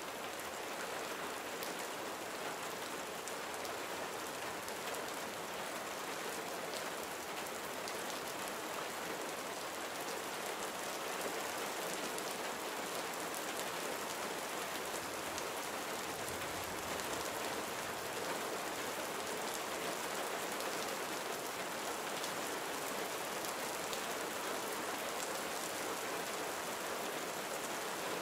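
Steady gentle rain falling, an even hiss with many fine drop patters.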